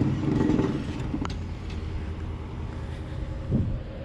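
Engine idling with a steady low hum, with a short low bump about three and a half seconds in.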